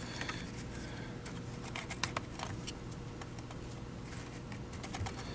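Scattered light clicks and handling noise of hands fitting a gasket back onto a TriStar vacuum's neck assembly.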